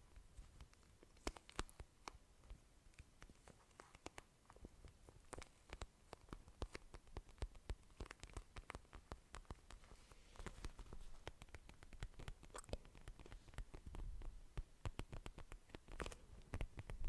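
Close-miked ASMR mouth sounds: a quiet, irregular stream of soft wet clicks and pops.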